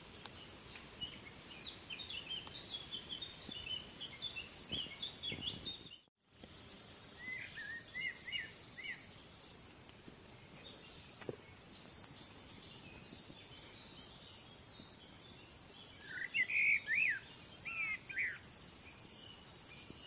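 Songbirds singing over a steady outdoor hiss: a busy run of quick, high chirping notes for the first few seconds, a short phrase of sliding notes after a brief drop-out, and the loudest phrase of sliding notes near the end.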